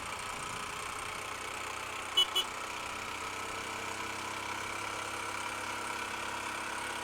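Honda Unicorn motorcycle's single-cylinder engine running steadily on the move, with two short horn toots about two seconds in.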